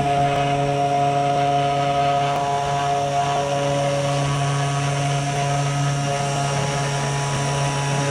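Small desktop CNC router's spindle motor running steadily as it carves wood: a constant motor whine over a low hum.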